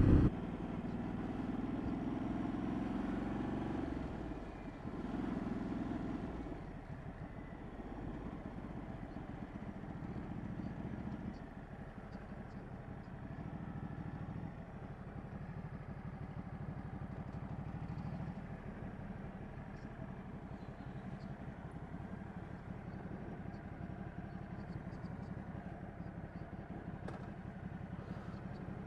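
Ducati Multistrada 1200's V-twin engine running. It is louder for the first few seconds, then settles to a lower, steady sound.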